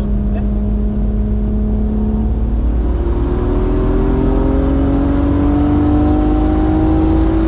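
Car engine pulling hard under acceleration, its note climbing slowly and steadily. A little over two seconds in, the note jumps higher before it carries on rising.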